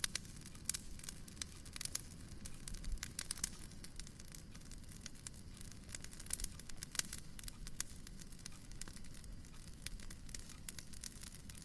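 Wood fire in a fireplace crackling, with frequent irregular sharp pops over a low steady rumble.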